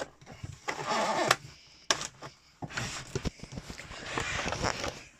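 Handling noises from a Miele Cat and Dog TT5000 vacuum cleaner: irregular rustling and knocking with a couple of sharp clicks near the middle. No motor runs, because the cleaner is not plugged in.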